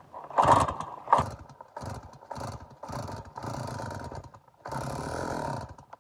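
Stihl MS290 chainsaw being pull-started, its recoil starter yanked six or seven times in quick succession without the engine running; the owner suspects it is flooded.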